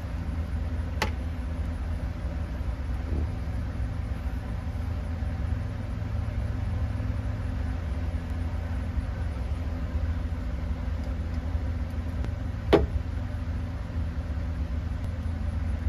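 An engine idling steadily with a low hum, with a sharp click about a second in and a louder click or tap near the end.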